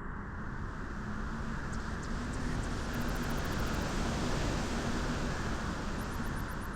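Wind blowing at a beach as a steady rush of noise that swells to a peak about midway and then eases a little. Short runs of fast, faint, high-pitched ticking come through about three seconds in and again near the end.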